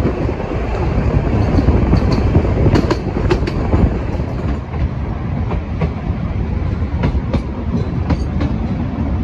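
Sóller Railway's vintage narrow-gauge train running along the track: a steady rumble with irregular clicks and knocks of the wheels over the rails.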